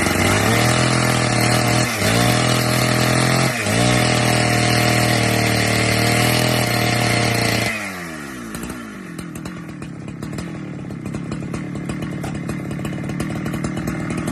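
Two-stroke chainsaw held at full throttle, its pitch dipping briefly twice. About eight seconds in the throttle is released and the engine winds down to a lower, rougher idle.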